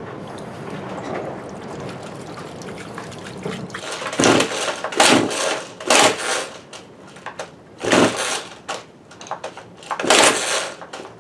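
A JCB-branded chainsaw's plastic recoil pull starter being yanked about five times, short rasping pulls roughly a second apart from about four seconds in, with the engine not catching. The pull start is jumping: the starter ratchet's sticky pawls are not gripping properly.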